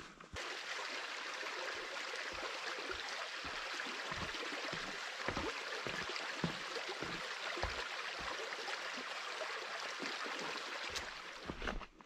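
Steady rushing of running water, like a small forest stream, with soft low thuds scattered through it; it starts and stops abruptly.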